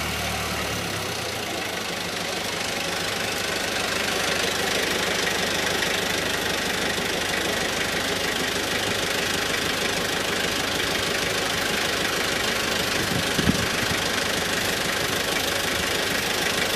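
A vehicle's engine idling steadily, with a single low thump about thirteen seconds in.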